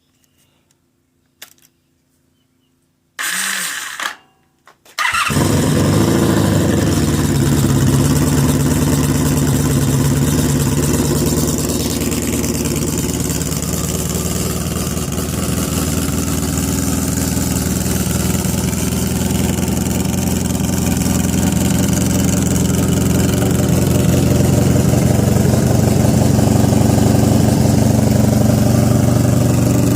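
Honda V65 Magna's 1100 cc V4 engine cranked by its starter for about a second, catching a second later and then idling steadily through a 4-into-1 exhaust with a homemade muffler. A few faint clicks come before the cranking.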